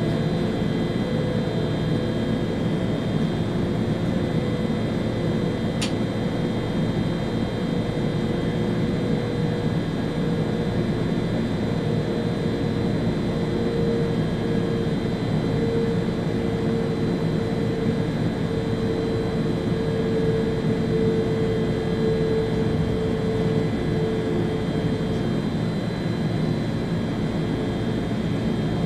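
Steady running noise inside the driver's cab of an ÖBB Railjet high-speed train at speed: a dense rumble with a humming tone that drifts slightly up and fades near the end, and steady thin high whines. A single short click about six seconds in.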